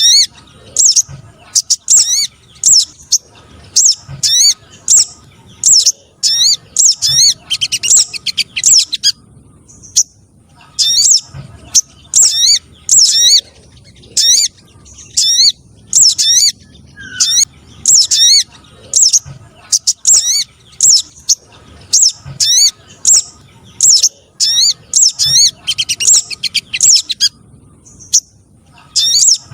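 Lure recording of sogon trotol (sogok ontong trotol) calls, a small nectar-feeding songbird: sharp, high chirps repeated rapidly, about two a second, with brief pauses near the middle and near the end. The calls are loud and unbroken by other sounds.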